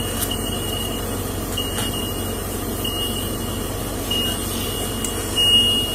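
Steady running noise of an idling vehicle, with a faint high-pitched tone that comes and goes.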